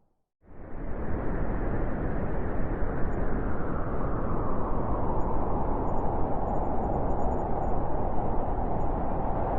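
Blizzard wind blowing hard: a dense, steady rushing noise with a deep rumble underneath. It cuts in abruptly after a brief silence at the very start.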